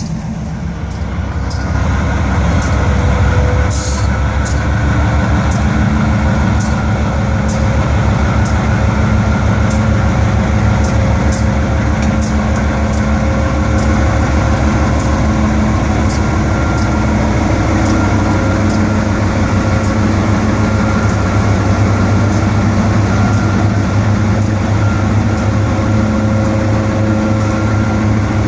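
Diesel locomotive engine running steadily with a work train, with scattered sharp clicks over the steady engine sound. It grows louder over the first few seconds, then holds level.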